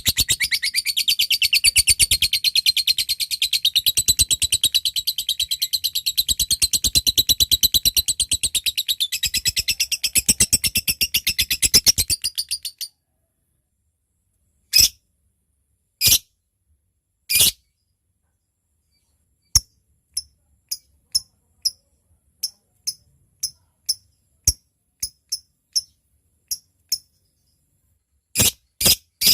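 Lovebird giving a long, fast chattering trill of rapid high notes (ngekek) for about thirteen seconds, then cutting off abruptly. After a pause it gives single sharp chirps (ngetik), first a few spaced apart, then a run of about one to two a second.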